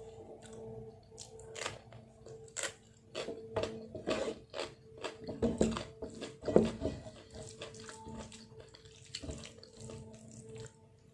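Close-miked mukbang eating sounds: irregular wet clicks, smacks and chewing as dal-soaked food is eaten by hand, loudest a little past the middle. A faint steady hum runs underneath.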